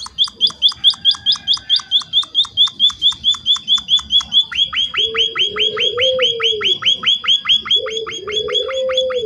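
Emprit (small munia-type finch) calling in a rapid, even series of short high chirps, about five a second. About halfway through the chirps change to longer down-slurred notes. A lower warbling sound comes in twice under them.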